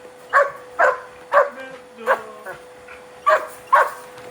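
German Shepherd barking sharply about six times, in quick pairs, at a vacuum cleaner it hates, over a steady hum.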